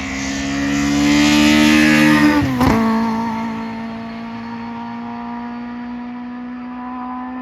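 VW Polo hillclimb race car at full throttle passing close by. Its engine note climbs and grows louder, then drops sharply with a short crack about two and a half seconds in, and settles into a steady drone as the car pulls away.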